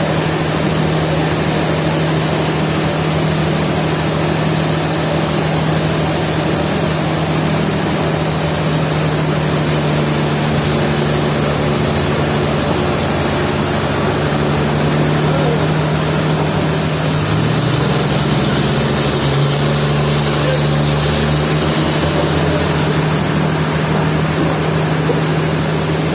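Sawmill machinery running steadily with a constant low engine hum. A brighter hiss joins it for several seconds about a third of the way in, and again just past the middle.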